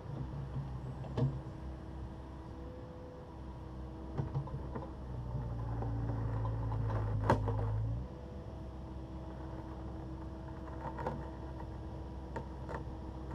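Takeuchi TB260 excavator's diesel engine running steadily. It works harder for a few seconds in the middle and drops back suddenly about eight seconds in. A few sharp knocks, the loudest around seven seconds in, come from the bucket against broken concrete.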